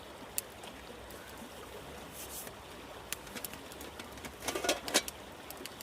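River water flowing steadily, with scattered small clicks and knocks and a short cluster of knocks about four and a half seconds in.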